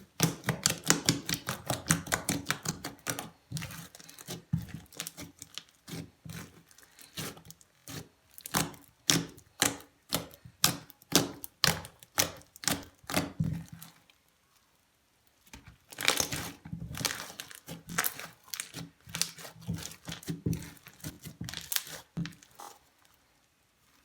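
Crunchy slime being squeezed and worked by hand, giving dense runs of crackles and pops, with a pause of about two seconds a little past halfway.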